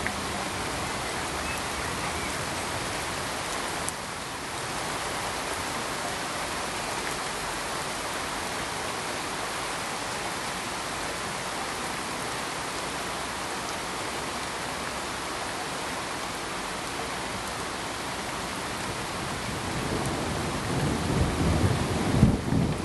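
Steady, even hiss of rain, with a low rumble of thunder building over the last few seconds and peaking just before the end.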